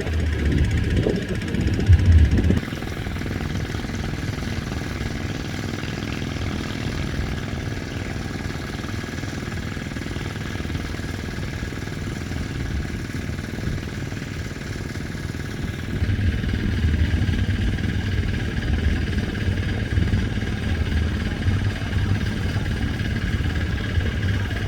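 Passenger fast boat's engines running with a steady drone and a constant high tone. There are a few louder low knocks in the first couple of seconds, and the low rumble grows heavier again about 16 seconds in.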